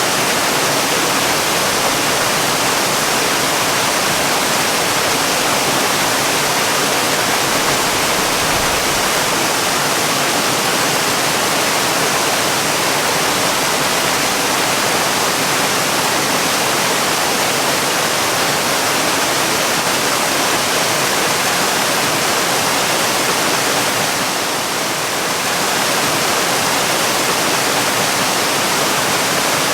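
Waterfall: a steady, even rush of falling water, dipping slightly in level for a moment near the end.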